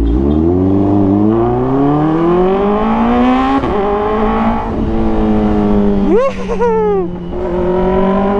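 Kawasaki ZX-4RR inline-four with a short Austin Racing exhaust canister, very loud, revving up under acceleration: its pitch climbs for about three and a half seconds, drops at a gear change and then holds steady. About six seconds in, the pitch jumps sharply and falls back in a quick rev.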